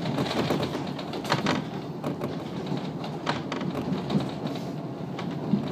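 Passenger train running slowly, heard from inside the car: a steady rumble with a few sharp clicks and knocks scattered through it.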